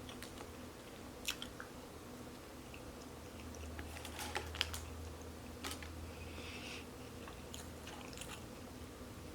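Close-miked eating: soft chewing and biting with scattered sharp, wet mouth clicks, the loudest cluster about four to five seconds in.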